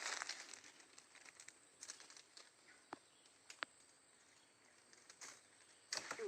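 Faint rustling and crackling of leafy plants being handled, dying down into quiet with a few scattered sharp clicks.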